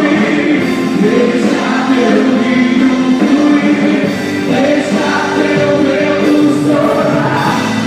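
Live worship music: a band playing with voices singing sustained notes.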